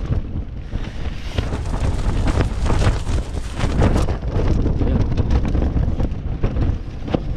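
Strong gusting wind buffeting a tent, with the fabric giving irregular sharp snaps over a heavy wind rumble on the microphone.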